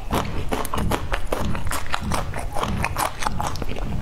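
Close-miked chewing: a person eating with the mouth near the microphone, a quick run of small clicks and smacks several times a second.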